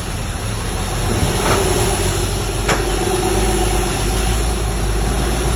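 Truck engine running steadily, with two sharp clicks a little over a second apart near the middle.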